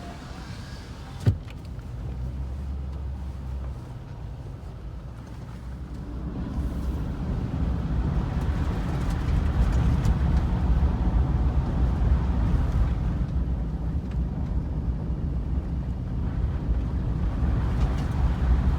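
Vehicle driving: a steady low rumble of engine and road noise that grows louder from about six seconds in, with a single sharp click about a second in.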